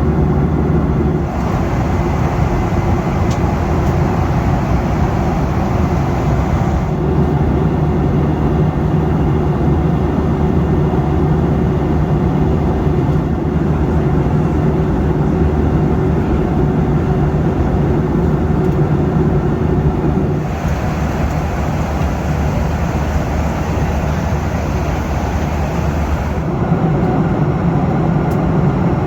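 Steady cabin noise of a Boeing 737 in cruise: a low engine drone under rushing airflow. Its tone shifts abruptly a few times.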